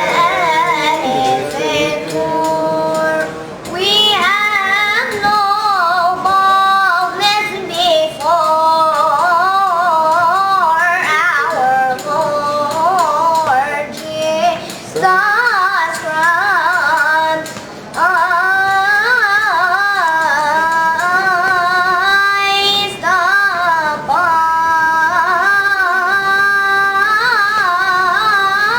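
A child's voice singing solo: long held notes that waver and slide with heavy ornamentation, phrase after phrase with only short breaths between.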